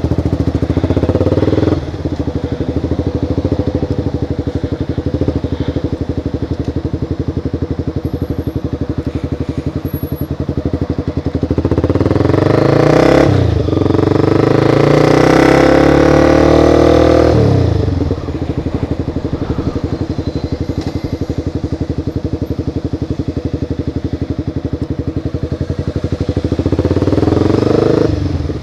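Sport motorcycle engine under way. It runs at a steady cruise, then accelerates about twelve seconds in with a quick break in pitch like an upshift, and holds higher revs for several seconds before the throttle is closed. There is a shorter rev-up near the end.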